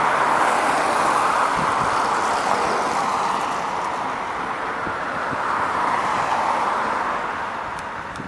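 Scania OmniLink CL94UB city bus under way, heard from inside the passenger cabin: a steady rushing drone of engine and road noise that eases off near the end.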